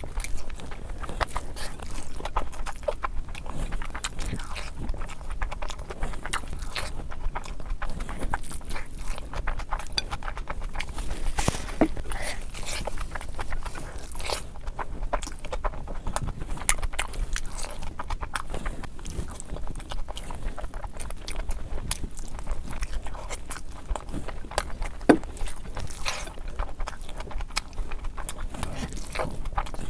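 Close-miked eating sounds of rice curry being chewed, sped up to double speed: a dense, irregular run of wet mouth clicks and smacks.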